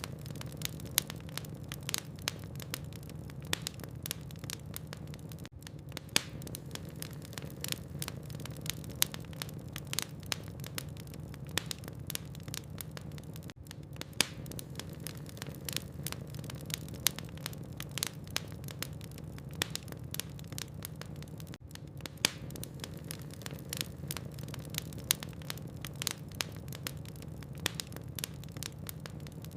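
Wood logs burning in a fireplace: a steady low hum with many irregular sharp crackles and pops.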